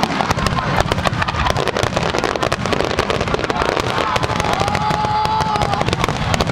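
Fireworks bursting in rapid succession: a dense, continuous crackle of many small sharp pops and bangs.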